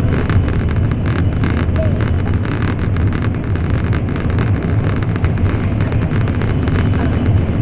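Cabin noise inside an N700 series Shinkansen running at speed: a steady low rumble with a hiss of running noise from the wheels and air.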